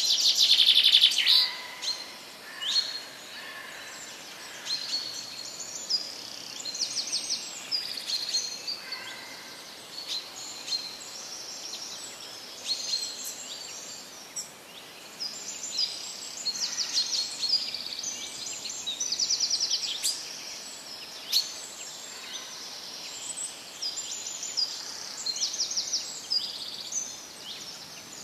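Birds singing: a steady stream of chirps and short rapid trills from more than one bird, loudest in the first second or so.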